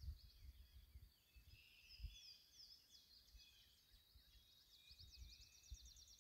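Faint outdoor birdsong: several small birds chirping with quick sliding notes, and a rapid trill of repeated notes starting about five seconds in. Soft low thumps of wind or handling on the microphone underneath.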